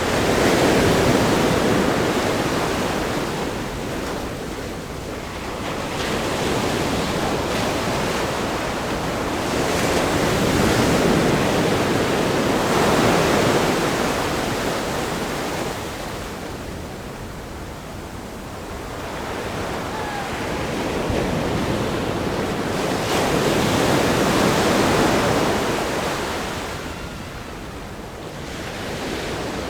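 Ocean waves breaking on a rock groin and washing over sand, a continuous surf rush that swells and eases with each wave, about six surges.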